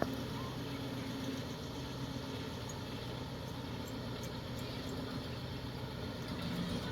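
Diesel engine of a heavy construction machine running steadily.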